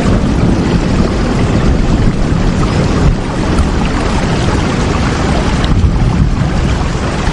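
Steady heavy rain: a dense, even hiss with a strong low rumble underneath, without letup.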